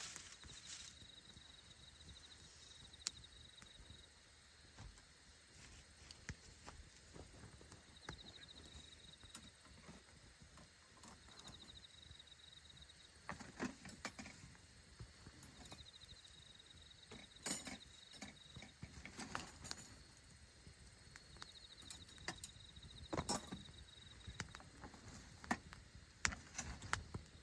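Wood campfire crackling and popping: irregular sharp snaps, in small flurries, the loudest about halfway through and near the end. A faint high trill comes and goes behind it.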